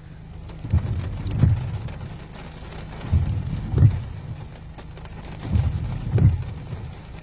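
Rain on a car with the windshield wipers sweeping: a pair of low thumps about every two and a half seconds over a steady hiss of rain.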